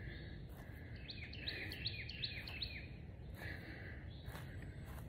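A wild bird singing a quick run of short down-slurred chirps, about four a second, starting about a second in and lasting under two seconds, over faint steady outdoor background noise.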